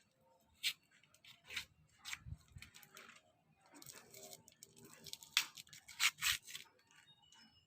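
Plastic ice cream wrapper being handled and torn open: irregular crinkling and tearing, busiest about five to six and a half seconds in.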